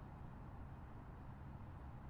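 Faint, steady low rumble of a car driving along the road.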